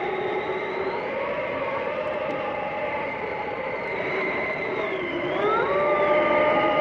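Howling blizzard wind: a steady rush with whistling tones that slide up and down in pitch. About five seconds in, one howl dips and then swoops higher.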